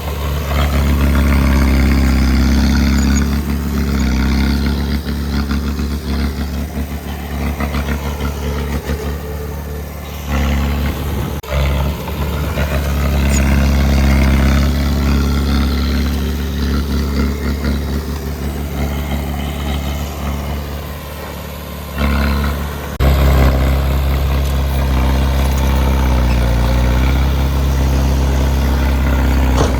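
Heavy earthmoving machine's diesel engine running under load, its low drone rising and easing as it works, with abrupt jumps in level a few times.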